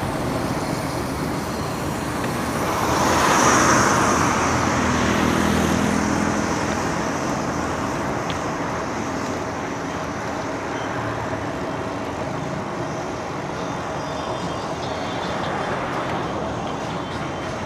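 Steady road traffic noise from motor vehicles. One vehicle passes close and loud about three to four seconds in, then fades.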